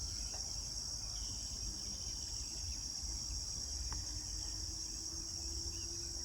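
Steady, high-pitched chorus of insects, cricket-like and unbroken, with a low rumble underneath and a few faint bird chirps.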